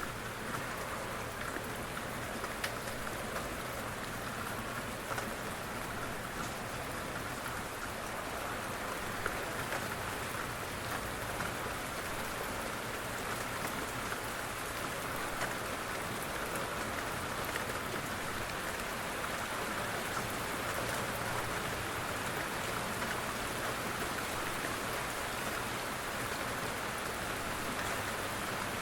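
Steady rain falling, a continuous hiss of drops pattering on a surface with fine individual drop ticks.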